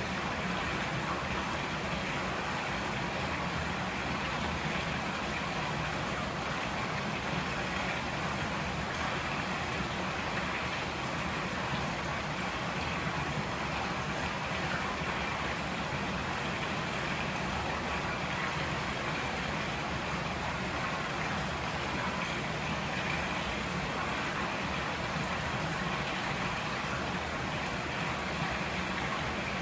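River water flowing in a steady, even rush with no separate splashes or changes.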